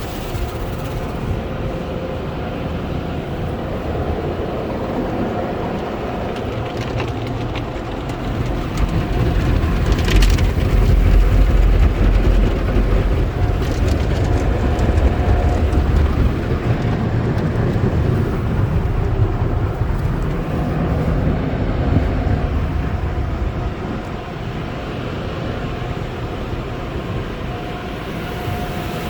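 Sonny's car wash tunnel equipment running: a steady rumble and wash of noise with a faint machine hum, the rumble growing louder about ten seconds in for several seconds.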